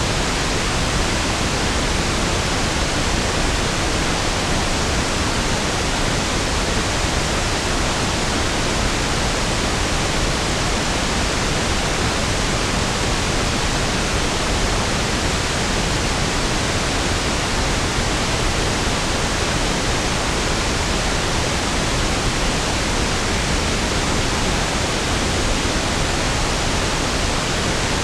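Pink noise (1/f noise), a steady, unchanging hiss with equal energy per octave, smoother and deeper than white noise.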